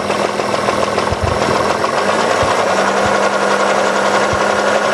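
Hyundai G6BA 2.7 L V6 engine running steadily with a fast, even knock, half-dull and half-ringing, from between the right cylinder head and the block. The mechanic suspects the hydraulic tensioner of the small chain linking the camshafts, and wants to rule out a connecting-rod knock.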